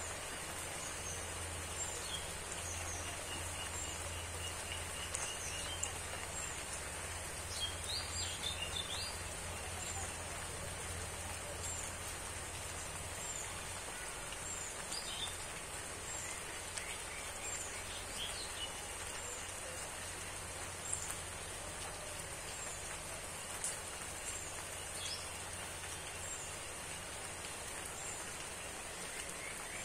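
Steady rain falling on vegetation and wet ground, with small birds chirping briefly every few seconds over a constant high-pitched whine.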